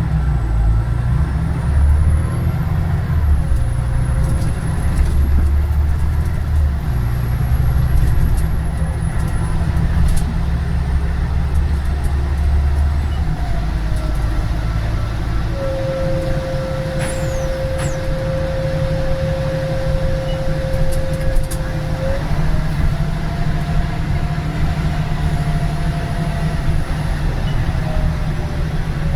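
Scania Omnidekka double-decker bus driving along, heard from on board: a heavy engine and drivetrain rumble that eases about halfway through. A steady transmission whine holds for several seconds, then rises in pitch and falls away near the end.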